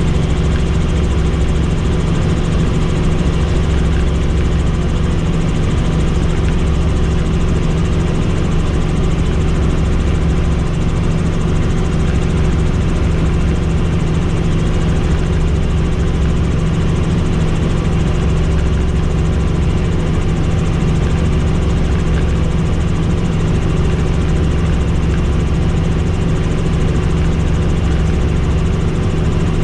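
Helicopter in cruising flight: a steady, loud drone of turbine and rotor, with a low rumble that swells and fades every few seconds.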